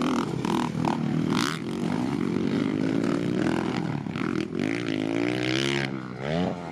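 A 250 dirt bike engine being ridden on a motocross track, revving up and down again and again as the throttle opens and closes, with a sharp climb in revs near the end.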